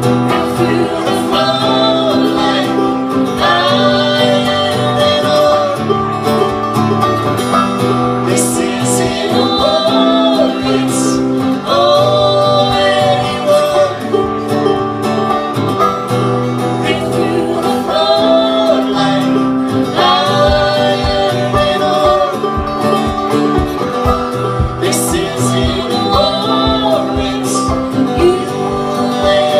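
Live acoustic bluegrass-country music: an instrumental break of picked guitar and plucked strings carrying a sustained melody line over steady chords. A low, regular beat comes in about two-thirds of the way through.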